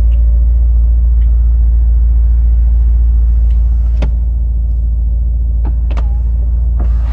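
Steady low rumble of the Mercedes-AMG SL63 while its power soft top closes, with a few sharp clicks and clunks from the roof mechanism about four, six and seven seconds in.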